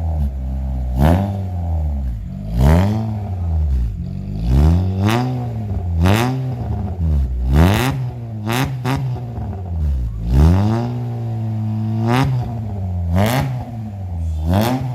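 Honda BR-V engine revved through a newly fitted aftermarket exhaust (downpipe, front pipe and muffler). It is blipped about a dozen times in short rises and falls of pitch, settling back to idle between.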